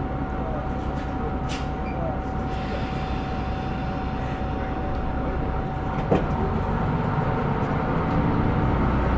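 Running sound of a KiHa 125 diesel railcar: steady engine and wheel-on-rail noise. A thin steady whine fades out about six seconds in, a single click follows, and the sound grows gradually louder near the end.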